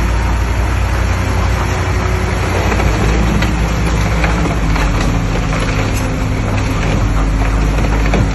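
Heavy diesel engine of an earthmoving machine running steadily under load, with scattered cracks and knocks over it.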